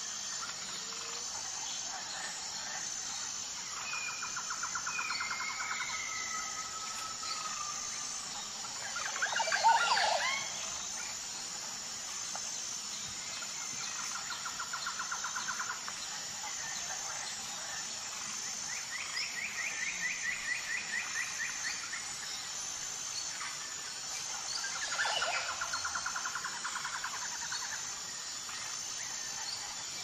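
Birds calling in rapid trills, several trill series spread across the stretch, with a louder burst of sweeping chirps about ten seconds in and another around twenty-five seconds. Under them runs a steady, evenly pulsing high insect chirr.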